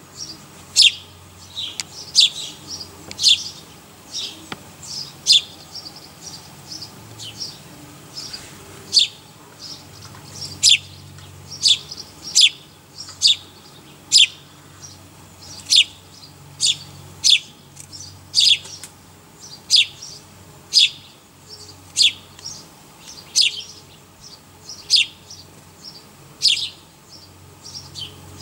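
A small bird chirping over and over: short, high chirps that drop quickly in pitch, about one or two a second.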